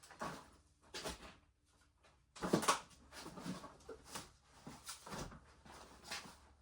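Knocks, clicks and rustles of a homemade arrow shooter being handled and reloaded, in about eight separate strokes, the loudest about two and a half seconds in.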